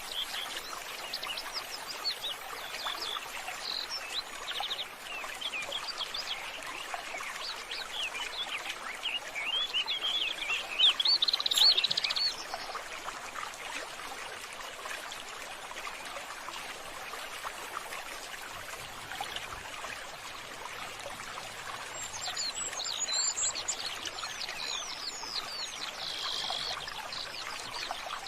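Steady running water with birds chirping over it. The chirps come in busy runs, loudest about ten to twelve seconds in, and pick up again near the end.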